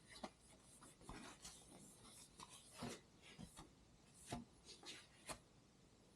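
Faint, irregular rubbing and scuffing of hands working at a motorcycle handlebar, wiping it down during cleaning with prep cleaner, with a few sharper clicks among the strokes.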